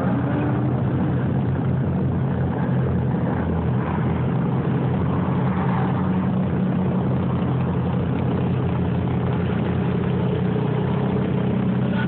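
Drift car engines idling steadily, a low, even engine note with no revving.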